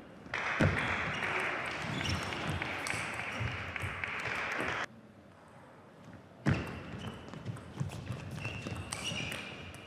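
Burst of crowd cheering and clapping that cuts off suddenly a little before halfway. A table tennis rally follows near the end, the ball clicking off bats and table in quick hits.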